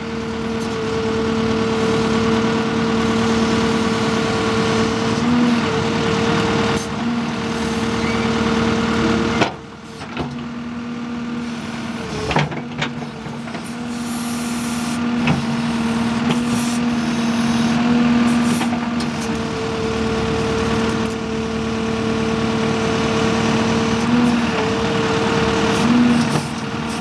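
Backhoe working: its engine runs steadily with a constant low hum over the machine noise, broken by a few short knocks and a brief dip in level about ten seconds in.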